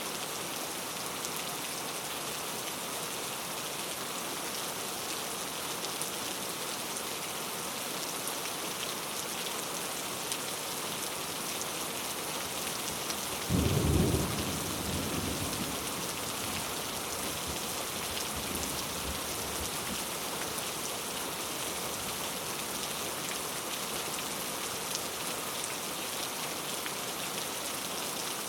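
Steady rain falling in a constant hiss. About halfway through, a sudden clap of thunder breaks out, deep and loud, and rumbles away over a few seconds.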